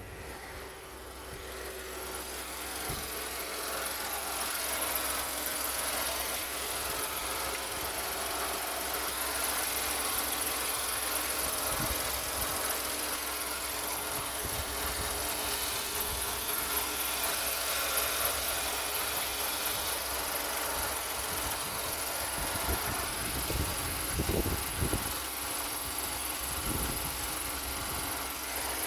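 VW Fox 1.2 three-cylinder petrol engine (CHFB) idling steadily on a pre-sale engine test. A few low bumps come in about three-quarters of the way through.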